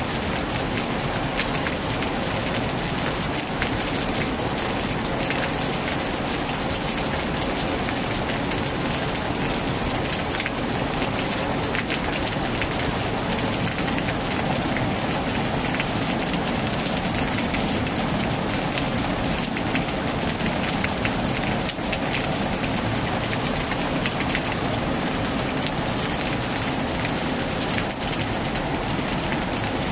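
Heavy rain falling steadily on a tin roof: a dense, even patter of drops.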